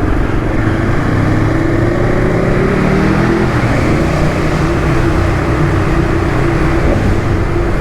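Motorcycle engine running under way, with heavy road and wind noise. Its pitch rises over the first three seconds, drops just after three seconds as in a gear change, then holds steady.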